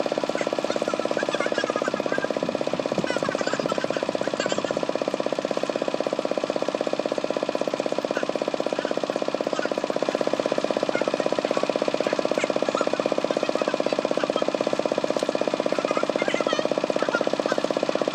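Kubota tractor's diesel engine running steadily under way, with a fast, even knocking beat.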